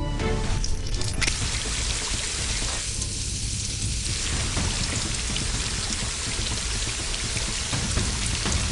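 Steady rushing hiss of falling water, like heavy rain, over a low rumble; it swells in about a second in and holds steady.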